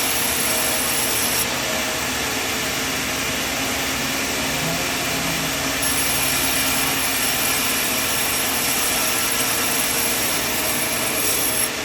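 Sawmill machine running with a steady, even mechanical noise.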